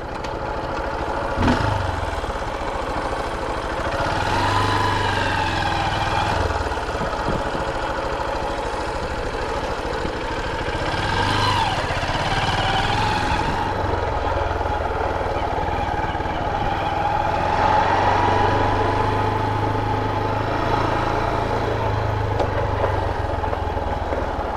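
Honda XR150's single-cylinder four-stroke engine running at low speed, its note rising and falling a few times with the throttle.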